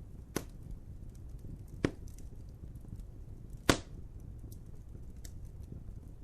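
Wood fire crackling over a low steady rumble, with faint small ticks throughout and three sharp pops about a second and a half apart, the last one the loudest.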